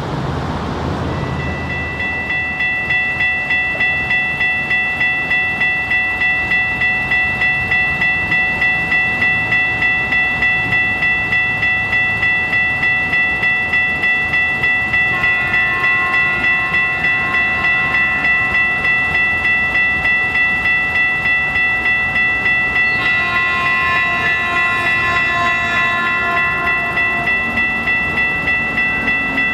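Railroad grade-crossing warning bell ringing in a steady repeating clang, about two strokes a second, starting about a second in. Twice, about halfway through and again near the end, another set of tones sounds over it for a few seconds, fitting an approaching train's horn.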